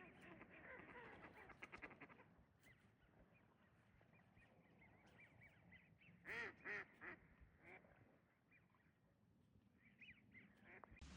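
Distant waterfowl calling faintly: a quick run of repeated calls in the first two seconds, then two louder calls about six seconds in, with a few weaker ones after.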